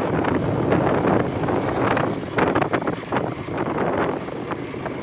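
Wind buffeting the microphone on a moving motorcycle, with the engine and road noise under it; the gusts are strongest around the middle.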